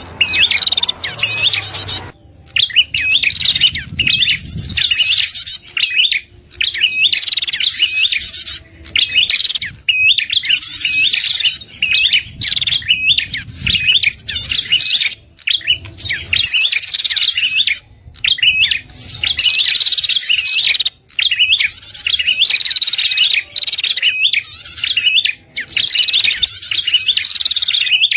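Prenjak (prinia) calls: quick runs of sharp, bending chirps, repeated phrase after phrase with short pauses between.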